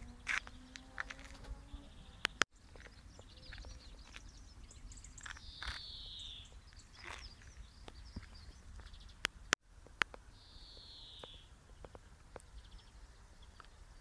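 Birds calling: two high falling notes about a second long, some four seconds apart, among faint rapid chirps. Two sharp clicks, about seven seconds apart.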